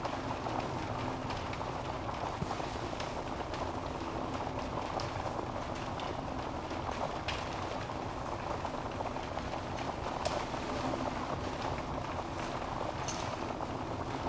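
Wood fire in a fireplace burning steadily, with a constant hiss and frequent sharp crackles and pops from the logs.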